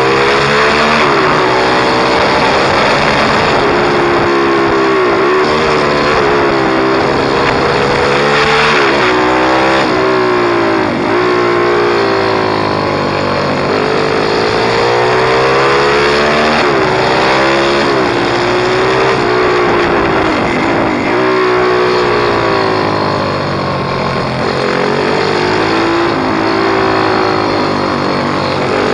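Pit bike engine being ridden hard. Its pitch repeatedly climbs under acceleration and shift by shift, then drops away as the throttle closes, over and over.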